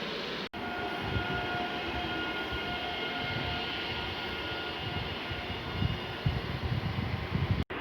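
A train passing, with a steady high whine through the first half and irregular heavy low thumps in the second half.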